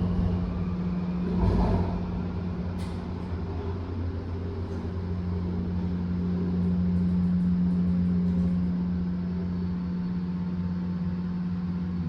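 Elevator drive motor running with a steady low hum as the car travels slowly up its shaft, with a brief bump about a second and a half in.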